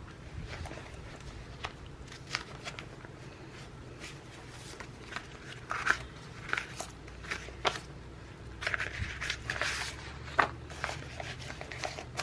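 Paper sticker sheets and planner pages being handled: scattered light taps and clicks, with crinkly rustling around six seconds in and again from about eight and a half to ten seconds, over a steady low hum.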